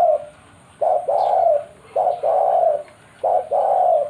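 Zebra dove (perkutut) cooing in its repeated phrase: a short note followed by a longer, drawn-out coo, about every 1.3 seconds.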